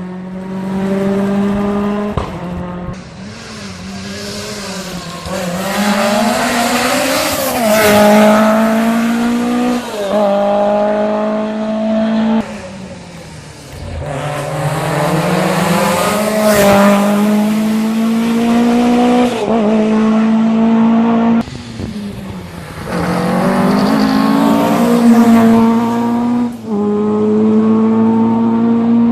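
Rally cars driven hard on a stage, their engines revving loudly with the pitch climbing through each gear and dropping at shifts and lifts off the throttle. The sound falls away and a fresh run takes over about 13 and 22 seconds in.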